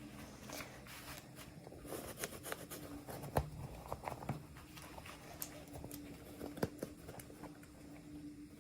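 Hands unboxing small plastic toy miniatures: irregular light clicks, taps and rustles of packaging and pieces, with a couple of sharper knocks in the middle, over a faint steady hum.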